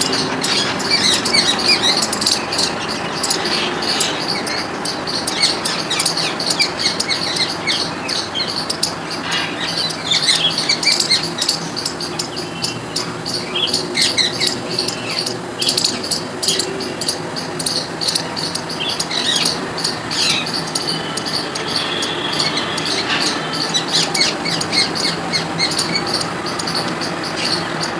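A squirrel's rattling chatter: rapid dry clicks and short chirps repeated over and over, with no break.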